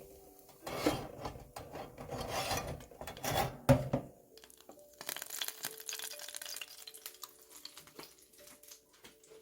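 Rubbing and scraping handling sounds in bursts, with a sharp knock partway through and a softer, finer scraping later, over faint background music.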